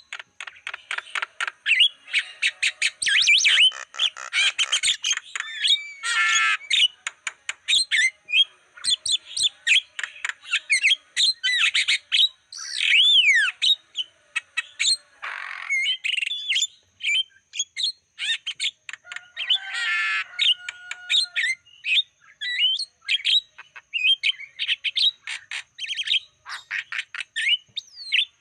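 Javan myna singing a busy, varied song of sweeping whistles, harsh squawks and rapid clicking runs, with only short breaks.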